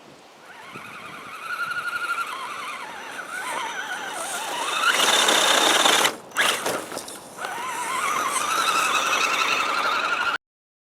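Electric motor and gear whine of an Axial SCX10 RC scale crawler driven by a Tekin 35-turn brushed motor. The pitch wavers up and down with the throttle as the truck crawls. The whine drops out briefly about six seconds in, picks up again, and cuts off abruptly near the end.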